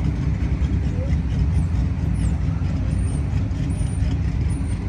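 Hot rods and trucks cruising in traffic: a loud, steady, deep engine rumble with no single car standing out.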